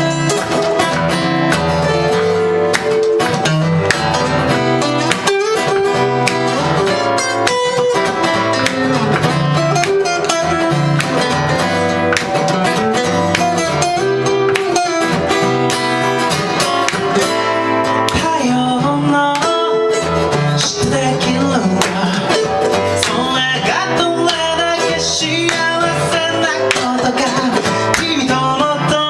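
Live music: an acoustic guitar strummed at a steady beat, opening a song.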